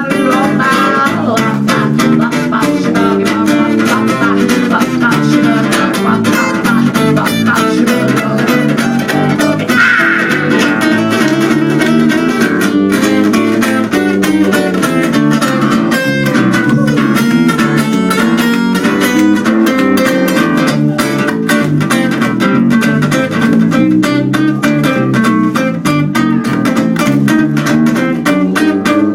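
Instrumental music: acoustic guitar strumming and picking a steady rhythmic accompaniment, with a bass line underneath.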